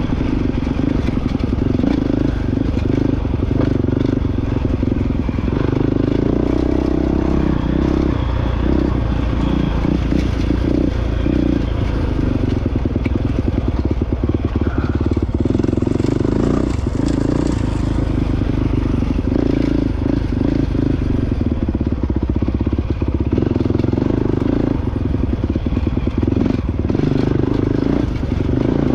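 Honda CRF450X dirt bike's single-cylinder four-stroke engine running steadily while riding off-road, its note rising and falling with the throttle, with frequent short knocks and rattles.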